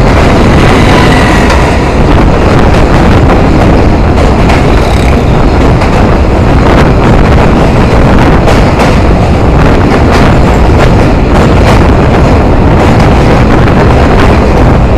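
Passenger train running over a steel truss bridge, heard loud from an open coach doorway: a steady heavy rumble of wheels on the rails with a dense rattling clatter running through it.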